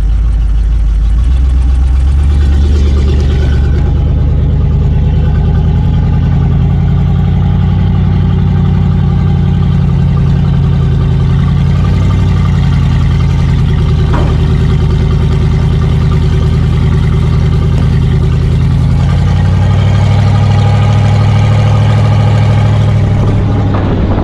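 Truck engine running loud and steady, its speed rising a couple of seconds in and changing again near the end as it is revved or driven.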